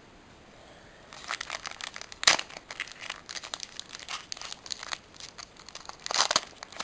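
Foil booster pack wrapper crinkling as it is handled and torn open, starting about a second in, with one sharp rip a little after two seconds.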